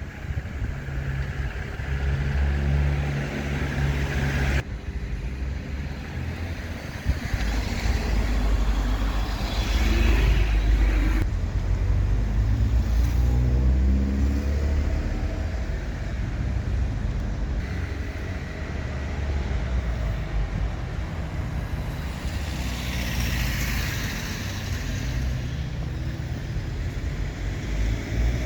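Street traffic: car engines running with a steady low rumble, and cars passing, swelling and fading about a third of the way in and again near the end.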